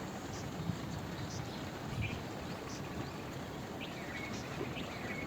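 Steady rain falling, with short, high bird chirps about once a second over it.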